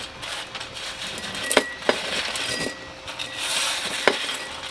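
Roasted pumpkin seeds being handled and eaten: a few sharp crunches and clicks over a steady background hiss.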